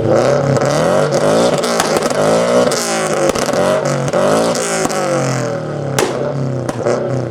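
A modified car's engine revved hard on a two-step launch limiter, its pitch swinging up and down several times. Sharp exhaust cracks and pops break through, the loudest about six seconds in.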